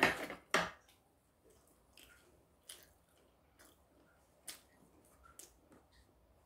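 A person chewing a mouthful of braised semi-dried pollock, with faint irregular wet mouth clicks. Two sharp clicks in the first second as the chopsticks are set against the food tray.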